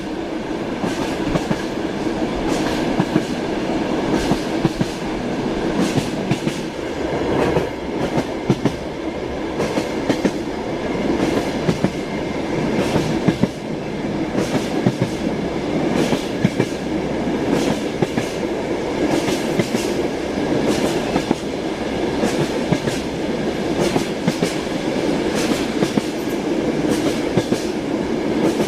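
Passenger train heard from inside a sleeping compartment: a steady running noise from the moving carriage, with the wheels clacking over rail joints in frequent irregular clusters of sharp clicks.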